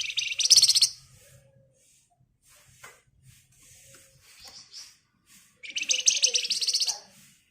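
A flamboyan (wergan Jawa) songbird giving its rapid, dense high trill twice: one burst about a second long at the start and another of about a second and a half near the end, with a few faint short notes between.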